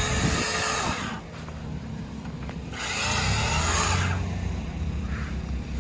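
Chainsaw cutting through the base of a balsam fir Christmas tree trunk in two loud passes: the first stops about a second in, the second runs from about three to four seconds in. Between and after the cuts the saw's engine keeps running at a lower level.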